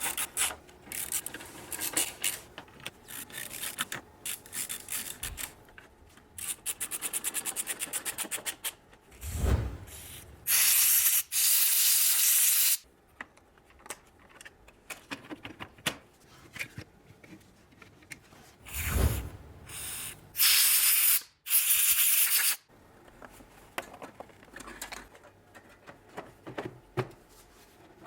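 Workshop hand work on a van's cooling system: rubbing and scattered clicks, a fast run of even ratchet-like clicks lasting about two seconds, and two loud hisses of about two seconds each, with a few dull thumps.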